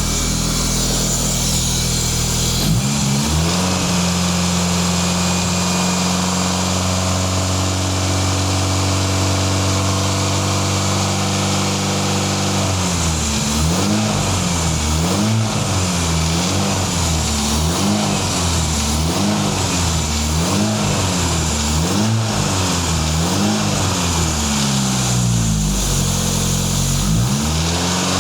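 Toyota 3S-GTE turbocharged 2.0-litre four-cylinder running just after its first start in nearly two years. The idle steps up about three seconds in and holds, then the throttle is blipped about nine times in a row, one rev every second and a half or so, with one more rev near the end.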